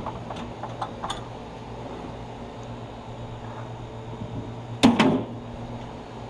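Metal grill being worked: a few light metallic clicks, then a loud double clank about five seconds in, like the grill lid being shut, over a steady low hum.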